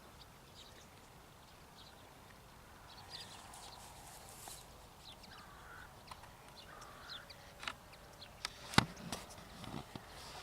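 Quiet outdoor ambience with faint scattered bird calls. Footsteps and rustling come in during the second half, with a sharp click near the end.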